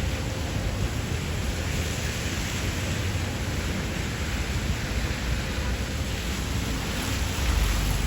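Heavy rain falling steadily on city streets, a dense even hiss, with a low rumble underneath that grows louder near the end.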